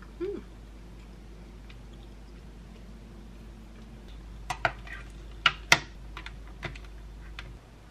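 A handful of sharp clicks and knocks about halfway through, the loudest two close together, over a low steady hum.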